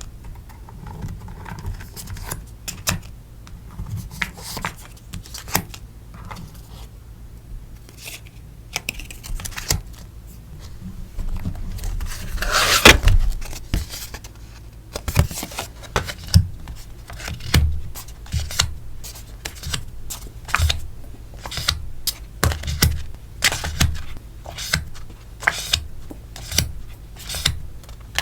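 Hands packing sticker orders: a steady run of small clicks, taps and rustles of paper and plastic packaging, with one louder rustle lasting about a second around the middle.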